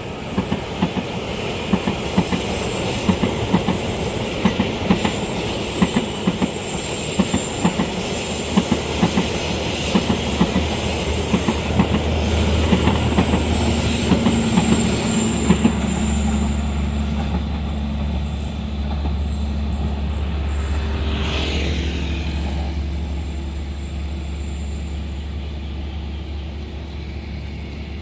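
A long train passing at speed, its wheels clicking rapidly over the rail joints for the first half, with a thin high wheel squeal on the curved track. The clicking then stops and a steady low rumble carries on, slowly fading near the end.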